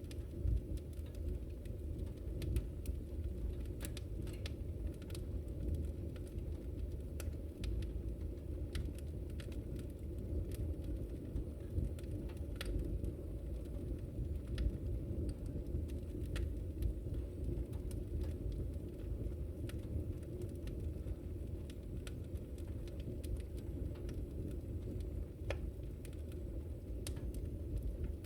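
Fireplace fire crackling: a steady low rumble of burning with sharp pops and snaps scattered irregularly throughout.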